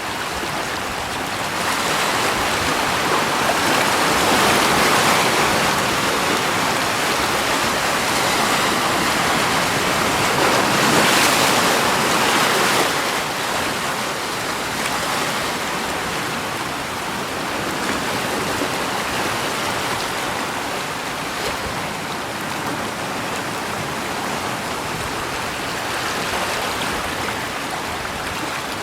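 Continuous rushing of running water, like a stream, swelling louder from about two seconds in to about thirteen seconds, then settling back.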